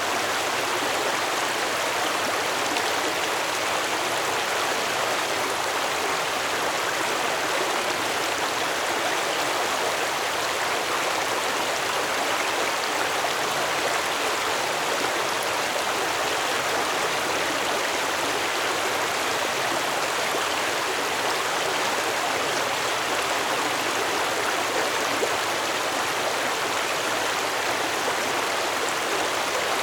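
Stream water flowing steadily over rocks, a constant rushing babble with no breaks.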